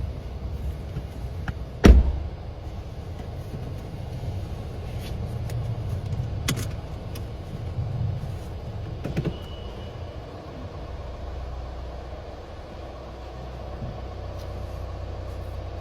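A car door shuts with a loud thud about two seconds in, over a steady low rumble, followed later by a few lighter clicks and knocks.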